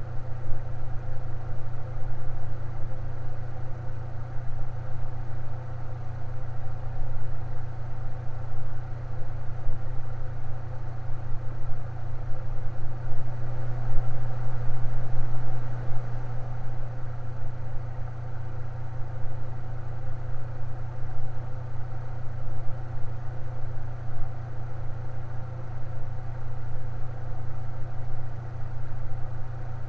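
Electric fan running steadily, a low motor hum with a light rush of air.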